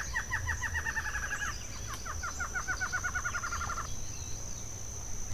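A bird calling in two rapid trills of quick, evenly repeated notes, each lasting about a second and a half, with the second beginning about two seconds in.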